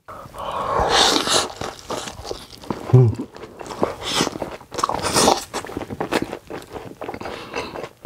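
A person eating close to the microphone: a run of irregular bites, crunching and chewing, with a short hum of the voice about three seconds in.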